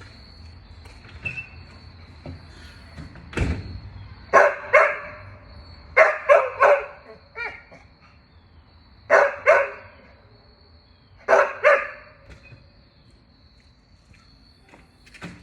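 Dogs barking in short volleys of two or three barks, every two to three seconds, with a single thump about three and a half seconds in.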